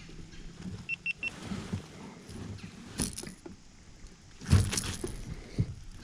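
Knocks and scrapes of a kayak and its paddle being handled as the boat is pushed back, with the loudest clunk about four and a half seconds in. Three short high beeps sound about a second in.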